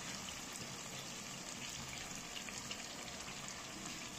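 Mutton and whole spices sizzling steadily in a pan as whisked yogurt is poured over them.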